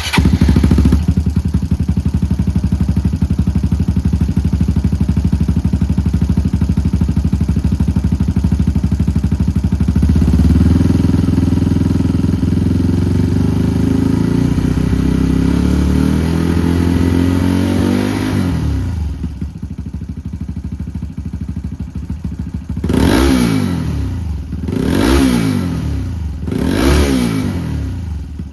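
Honda Grom JC61 single-cylinder engine breathing through a Moriwaki megaphone-type full exhaust system. It starts up at the beginning and idles steadily, is held slightly higher for a while, settles back, then takes three quick throttle blips that rise and fall near the end.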